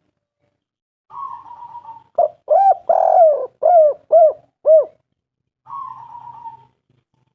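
Spotted dove (tekukur) cooing: a rough, drawn-out note, then a quick run of about six short hollow coos, then another rough note.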